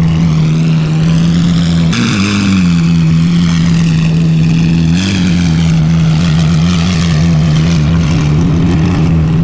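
A car engine running loudly at a steady pitch, with two brief throttle blips about two and five seconds in.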